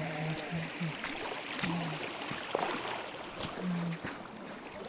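Steady rush of a mountain stream flowing, with a few brief clicks. Short fragments of a voice come through near the start, after a second and a half, and again near the end.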